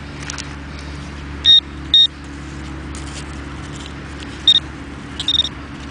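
Metal detecting pinpointer giving short, high electronic beeps as it finds a buried nickel in the dug hole: two beeps about half a second apart, then another about three seconds later and a quick double beep near the end. A steady low hum and faint scraping of soil run underneath.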